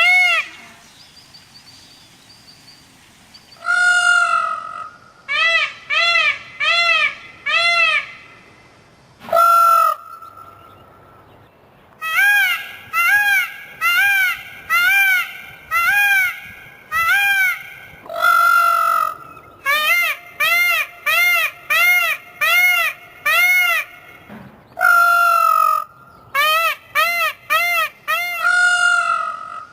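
A large bird calling over and over: short, nasal calls that each arch up and down in pitch, about two or three a second, in runs separated by brief pauses, with now and then a longer held note.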